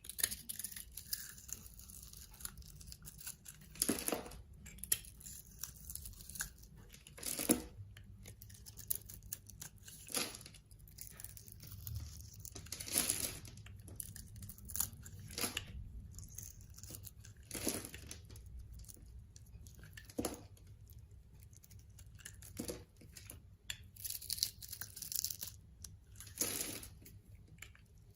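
A knife cutting and shaving into a bar of soap, in short crisp strokes at irregular intervals a second or two apart.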